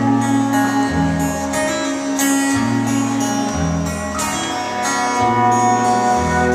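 Acoustic guitar strumming a repeating chord pattern, the bass notes changing roughly every second.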